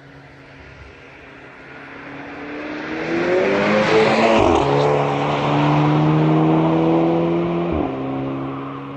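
VW Golf 6 GTI Edition 35's turbocharged 2.0-litre four-cylinder through a 3-inch downpipe and valved aftermarket exhaust, accelerating hard: the engine note climbs and grows loud, breaks and changes pitch about four and a half seconds in, holds strong, then steps down and fades near the end.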